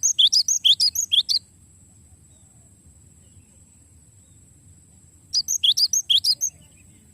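Cinereous tit (gelatik batu) singing: two quick runs of high, repeated chirping notes, each lasting about a second, one at the start and one about five seconds in.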